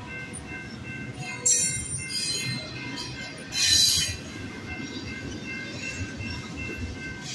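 BNSF intermodal double-stack freight train rolling past: a steady rumble of wheels on rail, broken by short high-pitched wheel squeals about a second and a half in and again near four seconds. Behind it the level crossing's warning bell rings on.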